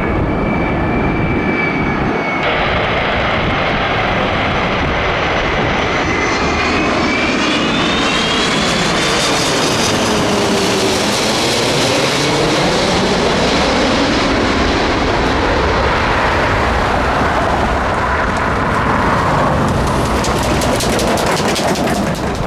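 Jet airliner's engines running loud as it passes close by, with a steady roar and whining engine tones that sweep up and down in pitch as it goes by.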